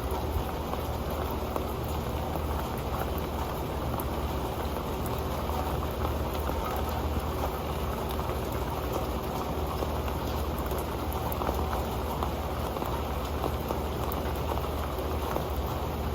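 Steady rain falling onto an old pan, a dense, unbroken patter of drops tapping it.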